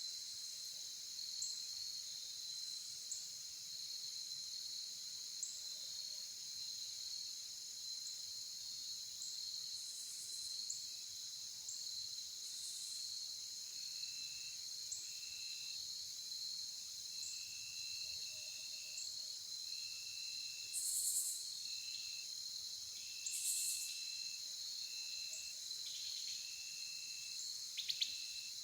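Insect chorus: continuous high-pitched trilling, joined about halfway through by a lower note repeated in short pulses, with a few brief sharp chirps over it.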